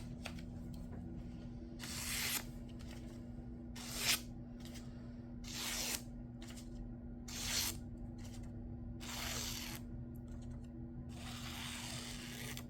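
A freshly sharpened knife slicing through paper in a series of separate cuts, about one every one and a half to two seconds, with a longer cut near the end. These are edge-test slices on a newly apexed edge.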